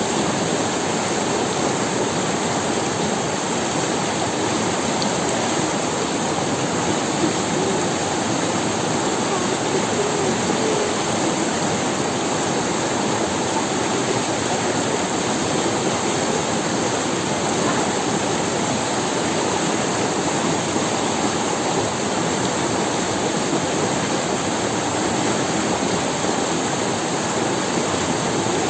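Steady rush of a river running over stones, an even noise at constant loudness.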